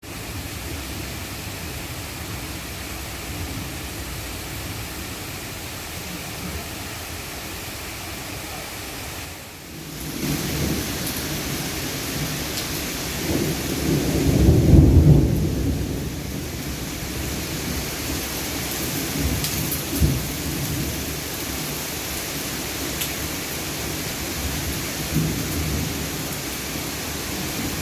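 Heavy rain pouring steadily, with a low rumble of thunder that swells and fades a little past the middle. A few sharp knocks stand out near the later part.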